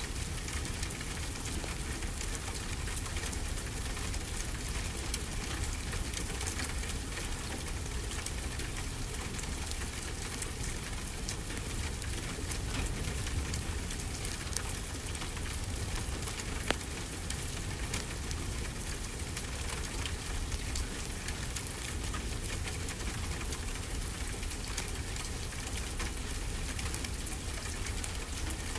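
Steady rainfall mixed with a wood fire crackling, with small pops throughout and one sharper pop a little past halfway.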